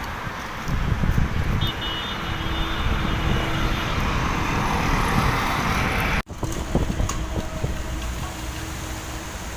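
Road traffic on a wet street: a vehicle's tyre hiss swells over a few seconds over a steady low rumble. The sound drops out for an instant about six seconds in, then steady road noise carries on.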